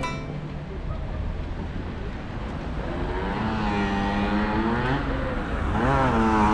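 A road vehicle's engine accelerating over a steady traffic rumble: its pitch climbs from about halfway in, drops sharply once near the end, and climbs again.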